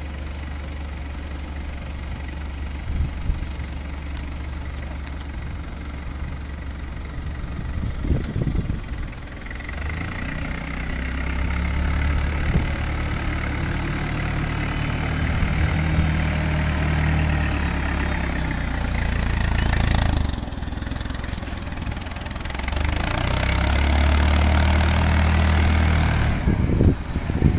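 Clark C25C LP-gas forklift engine idling steadily, then speeding up for a long stretch about a third of the way in and again near the end, with a thin high whine over it each time.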